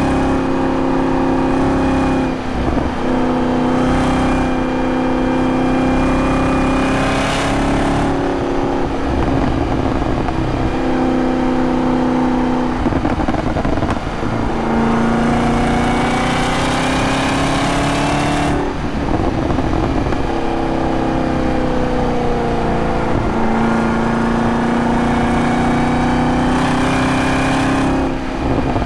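2023 Camaro ZL1's supercharged V8 running hard, its pitch rising and falling with the throttle. The note dips briefly several times along the way.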